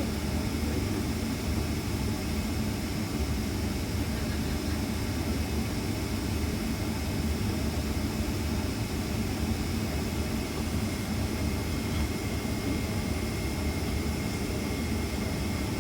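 Steady cabin noise inside a Boeing 767 airliner during pushback: a constant low drone of the aircraft's air and engine systems with a thin, steady high whine over it.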